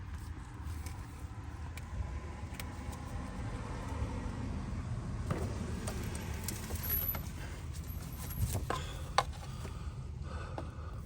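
Scattered small metallic clicks and rattles of hands and tools working a sensor and its wiring plug out of a diesel engine bay, most between about five and nine seconds in, over a steady low rumble.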